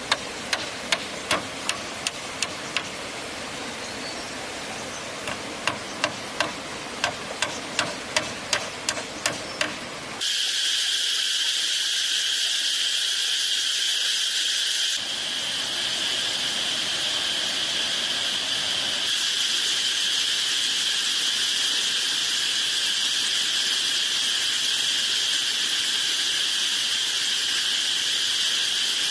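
A run of sharp knocks, about two a second, with a short pause partway through. About ten seconds in, this gives way abruptly to a steady, shrill chorus of insects, such as crickets or cicadas, that continues to the end.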